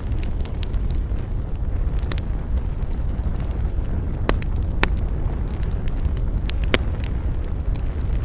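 Campfire crackling, with scattered sharp pops, a few of them louder about halfway through and near the end, over a steady low rumble of wind on the microphone.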